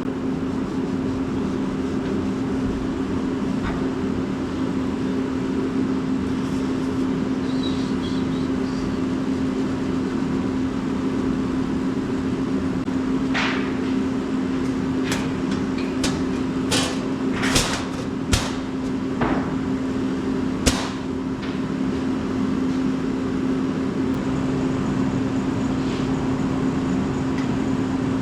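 A steady mechanical hum runs throughout. Partway through comes a run of about eight sharp knocks spread over some seven seconds, from workshop fabrication work.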